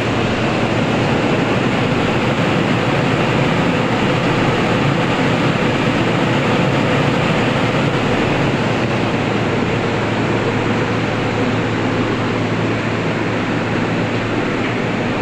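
Steady, loud rushing noise with a faint low hum and no distinct events or shots.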